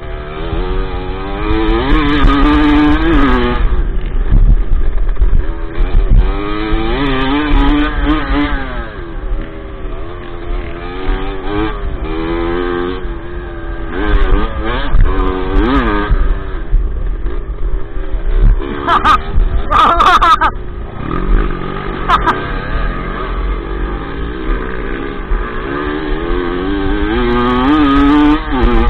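Dirt bike engine heard from on board, revving up and falling back again and again as the bike accelerates and slows along a dirt track, with wind buffeting the microphone. A few sharp knocks come about two-thirds of the way through.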